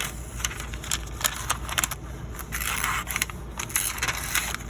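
Thin phone book paper crinkling and crackling as a dull knife edge drags and snags through it instead of slicing cleanly, a sign that the edge is too dull to cut.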